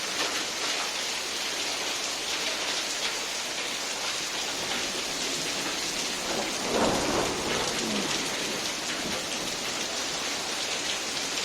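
Heavy rain falling steadily, a dense even patter of downpour, with one brief louder swell about seven seconds in.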